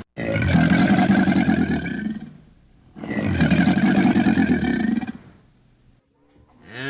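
A large animal roaring twice: two long, rough, low calls of about two seconds each, separated by a short pause.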